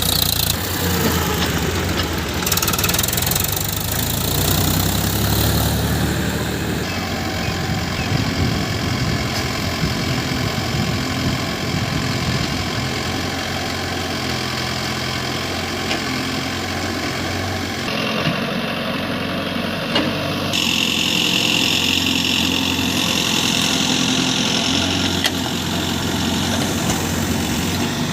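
Diesel engine of a JCB backhoe loader or the tractor running steadily. Its sound changes abruptly several times, about 7, 18 and 20 seconds in.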